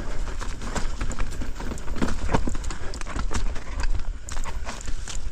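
Mountain bike riding down a rocky, technical downhill trail: a rapid, irregular clatter of knocks and rattles as the tyres, chain and frame hit rocks and roots, over a steady low rumble.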